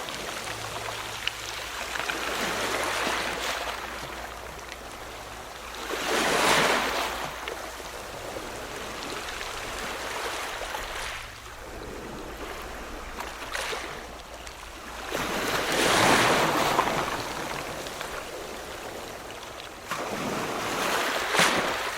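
Ocean waves breaking and washing in: three loud surges, near a quarter of the way in, past two thirds and near the end, with a steady quieter wash of surf between them.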